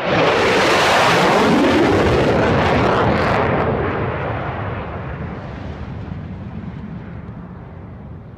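Military jet on a low-level flyby: a loud roar that peaks over the first few seconds with a falling pitch as it passes, then fades to a distant rumble.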